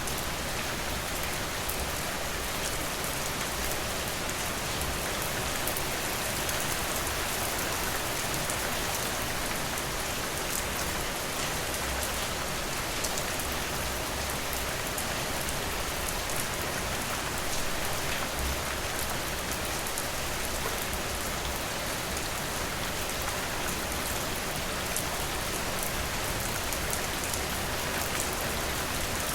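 Steady rainfall, a constant hiss with fine scattered drop ticks over a low rumble.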